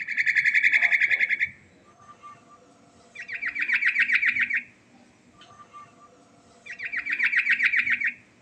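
Yellow-vented bulbul (trucukan) singing: three bursts of fast, evenly repeated chattering notes, each burst about a second and a half long, with short pauses between.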